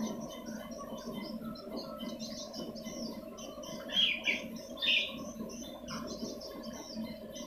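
Swiftlet lure recording: a dense, rapid twittering of many short high chirps, with two louder chirps about four and five seconds in, over a steady low hum. This is the kind of call played from swiftlet houses to draw swiftlets in to roost and nest.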